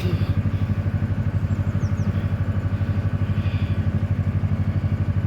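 Narrowboat's diesel engine running steadily at cruising speed, a low, even, rapidly pulsing chug.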